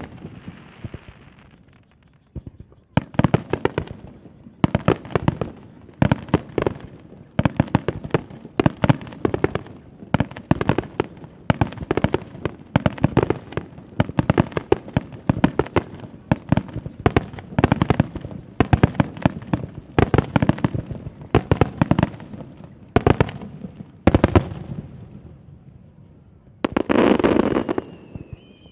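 Aerial fireworks shells bursting in quick succession: many sharp bangs, often in rapid clusters, with a short lull about two seconds in. Near the end comes a longer, denser burst of noise.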